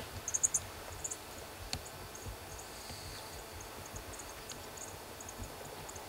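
Small birds chirping: short, high, thin chirps scattered irregularly, with a quick run of them near the start.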